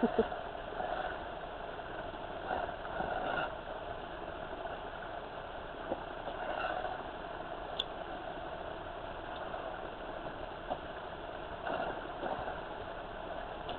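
Electric RC crawler truck's motor and gearbox whirring steadily, with a few brief swells as the throttle changes.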